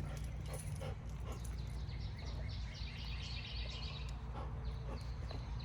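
Outdoor ambience: a steady low hum, with birds chirping in a quick run of high calls midway and a few small clicks.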